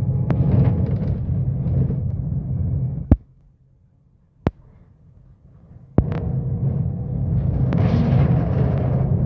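Scania K270UB bus diesel engine running, a steady low drone. It breaks off abruptly with a click about three seconds in, leaving a quiet gap with one more click, then starts again just as abruptly about six seconds in.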